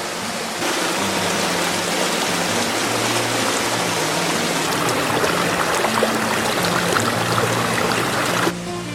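Background music under a loud, steady rushing noise with scattered sharp crackles; the noise starts abruptly about half a second in and cuts off sharply near the end.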